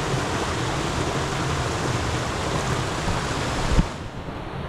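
Tall free-falling waterfall pouring, a steady dense rushing. About four seconds in a short knock comes, and the rush turns quieter and duller.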